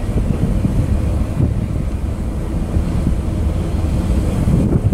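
Freight cars (covered hoppers and tank cars) rolling past close by: a steady low rumble of steel wheels on rail, mixed with wind buffeting the microphone.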